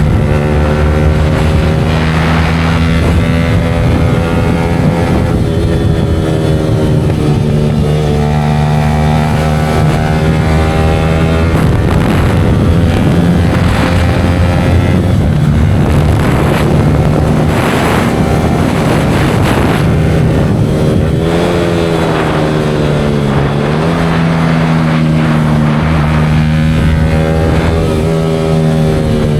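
Yamaha R15 V4M's single-cylinder engine running through a Leo Vince aftermarket exhaust, its pitch rising and falling again and again as the throttle opens and closes.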